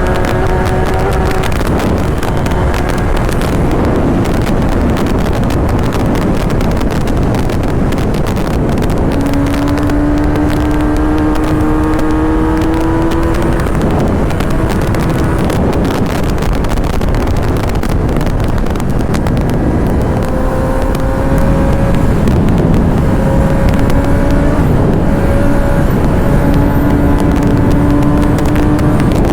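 Kawasaki ZX-10R superbike's inline-four engine pulling at speed, its pitch climbing slowly through several long pulls with breaks between them, under heavy wind rush on the microphone.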